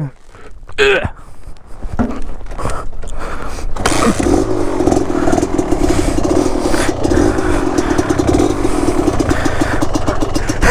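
Two-stroke dirt bike engine. It comes in loudly about four seconds in and keeps running with a fast, even beat.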